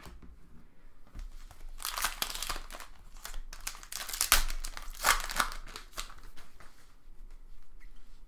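A foil trading-card pack wrapper being torn open and crinkled, in several irregular bursts, the loudest about four seconds in.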